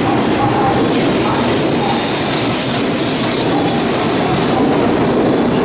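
Tokaido Shinkansen train rolling slowly along the platform, a steady rumble of wheels on rail with short faint squeals recurring through it.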